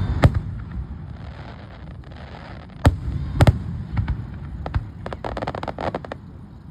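Fireworks going off: a few sharp, separate bangs spread through the first five seconds, then a quick run of crackling pops about five seconds in.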